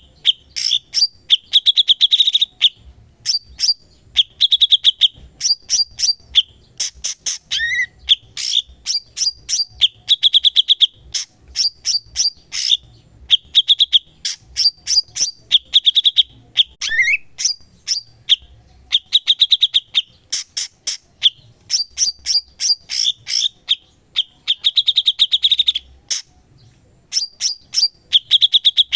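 Cucak cungkok singing non-stop: rapid strings of sharp chipping notes alternating with short buzzy trills, broken by brief pauses, with a couple of downward slurred whistles.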